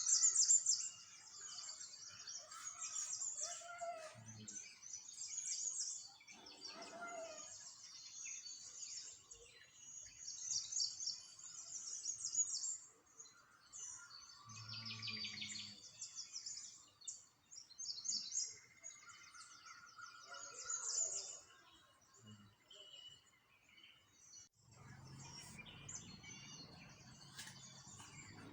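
Small songbirds chirping and singing, with short, rapid, high-pitched trills repeating one after another. A low rumble comes in during the last few seconds.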